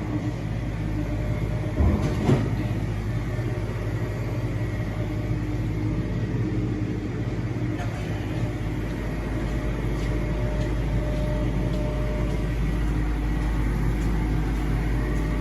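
Steady machine hum at an automatic car wash, with a low drone and a few held tones, and two short knocks about two seconds in.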